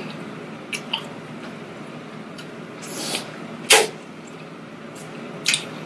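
Eating and food-handling noises during a seafood-boil meal: a few scattered sharp clicks and cracks, the loudest about three and three-quarter seconds in, with a short rustle just before it.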